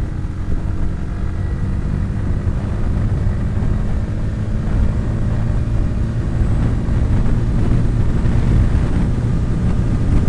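Bajaj Pulsar P150's single-cylinder engine running as the motorcycle is ridden, its pitch climbing slightly in the first couple of seconds, under heavy wind rumble on the microphone.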